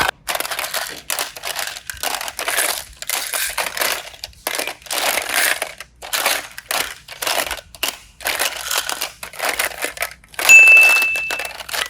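Slime being squeezed and pressed by hand, with crackly, crunchy squishes coming in short irregular bursts. Near the end a short steady high-pitched tone sounds for about a second.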